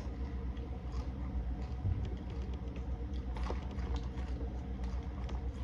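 A person chewing food close to the microphone, with scattered small wet clicks and smacks, over a steady low hum.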